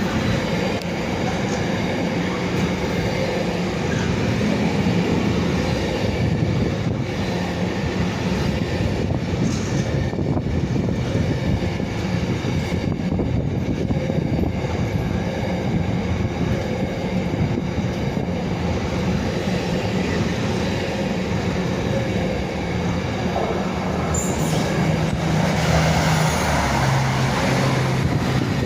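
A Class 66 diesel locomotive and its train of freight wagons passing, a long steady rumble of wheels running on the rails, with a low hum that strengthens near the end.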